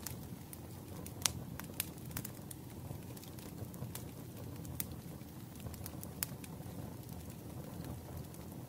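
Wood fire crackling in a fireplace: a steady low rumble of burning with irregular sharp pops and snaps, a few louder ones about a second in and near the middle.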